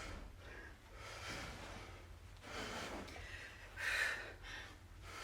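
A person breathing hard from exertion mid-set of a kettlebell exercise: loud, hissy breaths about once a second, the strongest about four seconds in.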